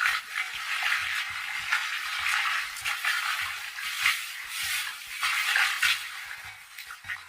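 Food sizzling in a pan while being stirred, the hiss swelling and fading in uneven surges.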